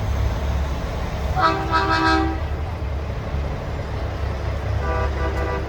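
Semi-truck air horn sounding a chord of several notes, pulsed three times about a second and a half in, then a second shorter blast near the end, over a steady low diesel rumble.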